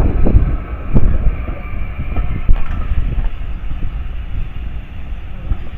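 Heritage railway train running on the track: a heavy low rumble with a few sharp knocks, the loudest about a second in.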